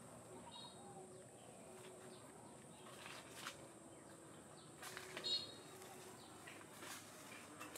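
Quiet outdoor ambience with a few short bird chirps, the loudest a little past the middle, over a faint steady high whine, with a few faint clicks.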